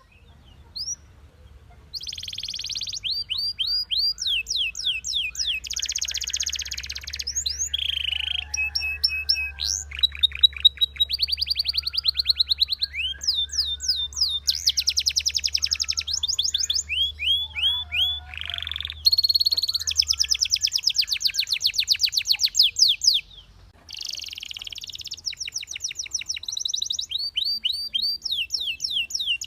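Belgian canary singing a long, varied song of rapid trills and rolls of repeated sweeping notes, broken by short pauses near the start and about three-quarters through. A faint low hum lies underneath for the first two-thirds.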